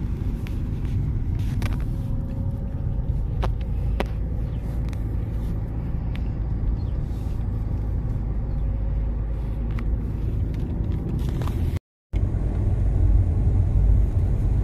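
Car being driven, heard from inside the cabin: a steady low engine and road rumble with a few faint clicks and knocks. The sound cuts out for a moment near twelve seconds and comes back a little louder.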